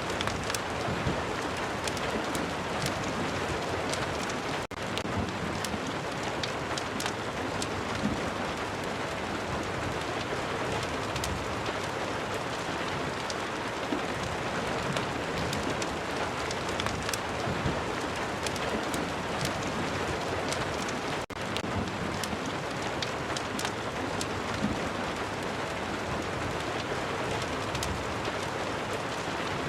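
Steady rain falling, with many small sharp crackles scattered through it from a fireplace. Twice, at about 5 s and 21 s, the sound drops out for an instant.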